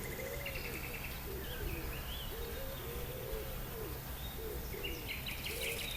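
A pigeon cooing repeatedly in a run of low, soft, arched calls, with other songbirds chirping faintly at a higher pitch.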